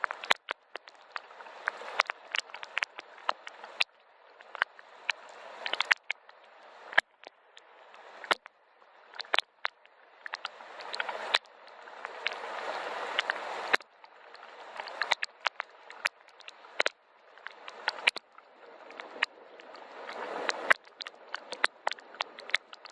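Rain falling, with many sharp separate drop hits over a soft hiss. The hiss swells and then drops off suddenly every few seconds.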